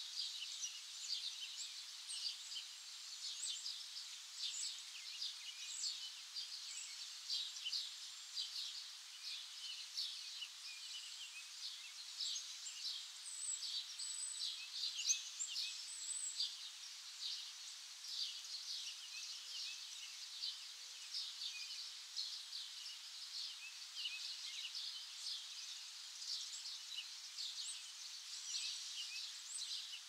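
A flock of small birds chirping continuously, many short high chirps overlapping one another without pause.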